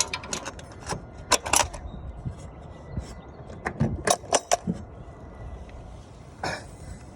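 A series of sharp clicks and knocks, with close clusters about a second and a half in and again around four seconds in, and one more near the end.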